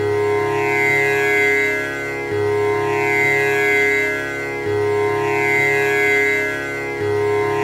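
Tanpura drone: its strings are plucked in a repeating cycle that starts over about every 2.3 seconds, each string ringing on with a buzzing, shimmering overtone sweep.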